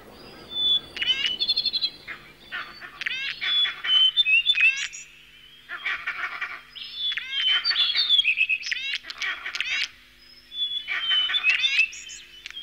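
Several birds calling: bursts of quick, repeated downward-sweeping chirps and trills, high-pitched, coming and going throughout.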